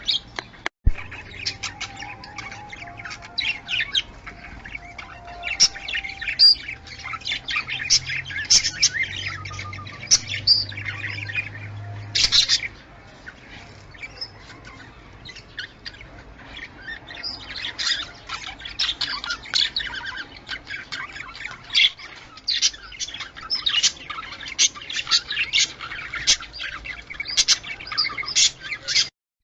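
Budgerigar chatter: a dense run of quick chirps and warbles with occasional squawks, thinning out for a few seconds in the middle. A low steady hum sits under the first half.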